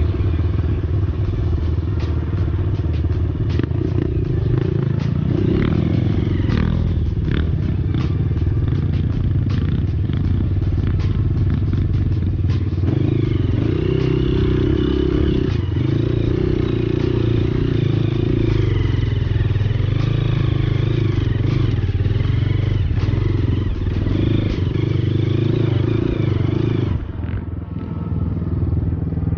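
Dirt bike engine running hard, its pitch rising and falling with the throttle, with scattered sharp clicks and knocks. The engine note drops off briefly near the end, then picks up again.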